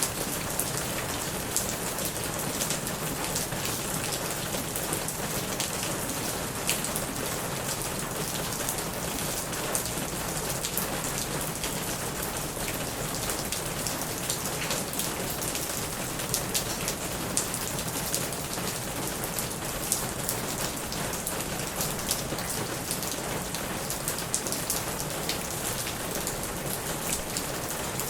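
Heavy rain pattering steadily on a plastic roof, a dense hiss with many sharp individual drop strikes standing out.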